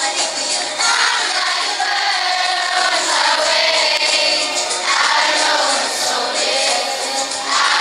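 A group of schoolchildren singing together over music.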